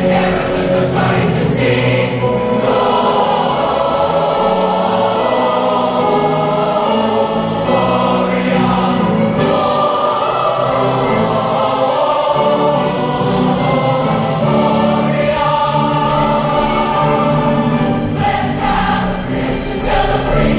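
Large combined choir singing a festive Christmas piece with orchestra and wind ensemble accompaniment, steady and full throughout.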